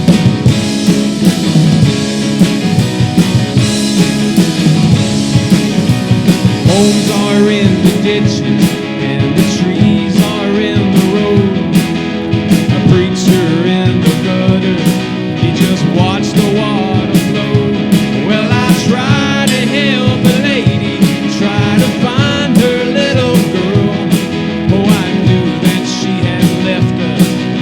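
Rock band playing an instrumental break with drums, bass and guitars. A lead line of bending notes rises over a steady cymbal beat from about eight seconds in.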